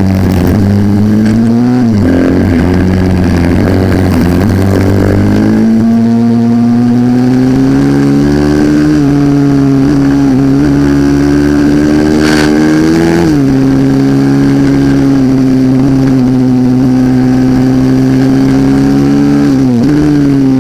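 140cc pit bike's single-cylinder four-stroke engine running hard at race speed, its pitch climbing slowly for several seconds, dropping sharply about thirteen seconds in, then rising briefly and dropping again near the end.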